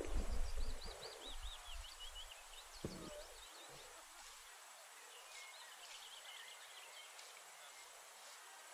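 A small bird singing two phrases of quick, high, rising-and-falling notes, the first about half a second in and the second around five and a half seconds in, over a low rumble on the microphone that dies away after about three seconds.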